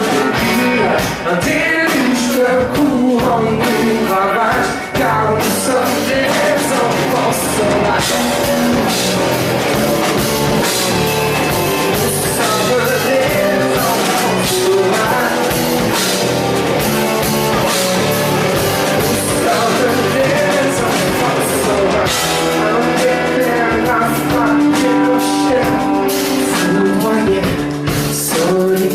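A male singer with a rock band playing live: vocals over electric guitar and drums.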